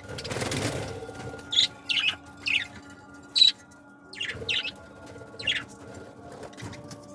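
Pet cage birds: a brief flutter of wings, then a string of short, high chirps, about seven spread over the next few seconds.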